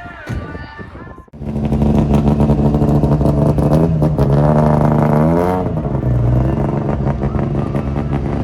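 After about a second of music, a sudden cut to a rally car's engine running loud at high, held revs, with a single dip and rise in pitch midway before it holds steady again.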